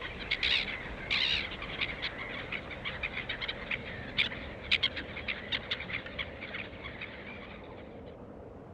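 A wild bird singing in a quick string of short, high chirps and notes, with two denser buzzy phrases in the first second and a half. The song thins out and fades near the end.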